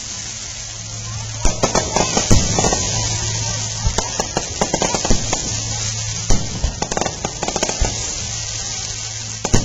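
Fireworks going off: a dense run of sharp bangs over continuous crackling, which thickens about a second and a half in.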